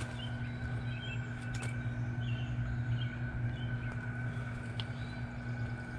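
A steady low machine hum, with faint short bird chirps scattered through it.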